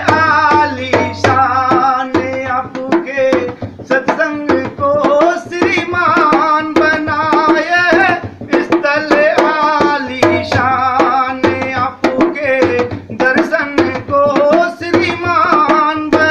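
Music from a Hindi devotional bhajan: tabla playing a steady rhythm under a wavering melody line, heard in phrases, with no sung words.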